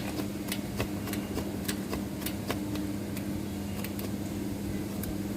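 Steady mechanical hum of running machinery, with scattered sharp clicks.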